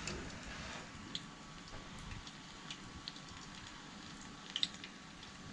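Battered flathead fillets frying in a shallow pan of oil: a steady soft sizzle with scattered small pops and crackles, a few bunched together near the end.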